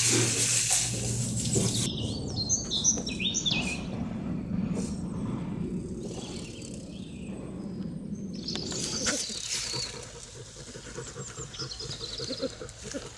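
Straw bedding rustling as young porcupines shuffle through it. Then small birds chirp a run of quick, high calls, with a brief rustle about nine seconds in and fainter chirps near the end.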